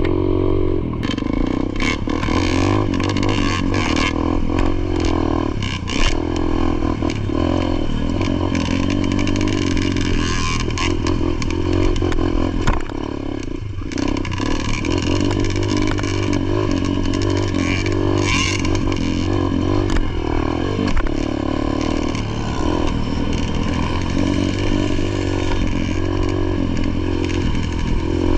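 Dirt bike engine running under changing throttle while riding a motocross track, with rattle and clatter from the bike throughout. The engine eases off briefly a little under halfway through.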